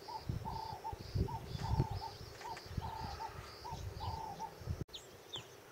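A bird repeating short, even calls, about two a second, over low rumbling. After a sudden cut near the end, other birds chirp with quick falling notes.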